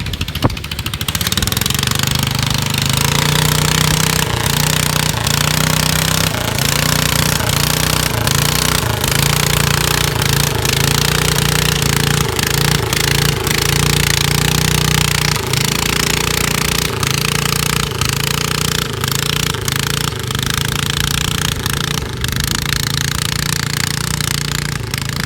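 Modified garden tractor engine running hard at high revs during a pull. It comes in about a second in and holds a fairly steady pitch, which wavers and dips a little through the middle.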